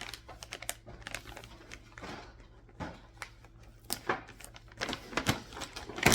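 Wrapping paper crinkling and rustling in irregular bursts as it is folded around a present, with scattered light crackles and taps.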